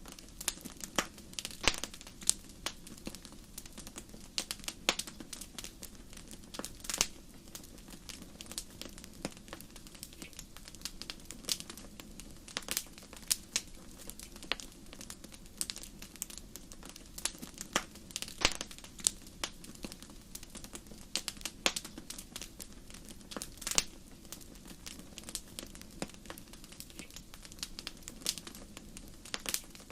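Wood fire in a fireplace crackling, with sharp irregular pops and snaps over a steady low rush of flames.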